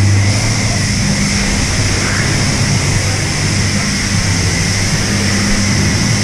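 High-pressure wand at a self-serve car wash spraying steadily: a loud hiss of water over a low pump hum.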